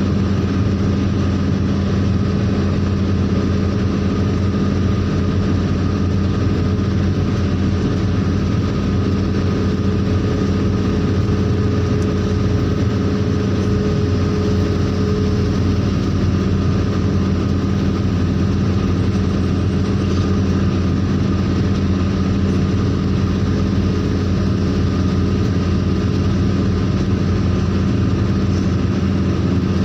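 Engine running at an even, unchanging speed, a steady low hum with no revving.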